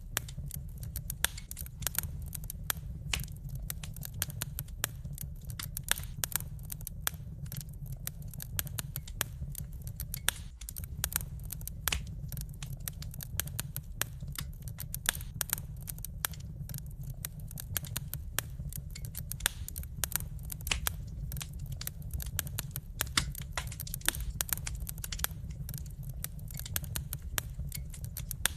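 Wood fire crackling, with irregular sharp pops and snaps several times a second over a steady low rumble of burning.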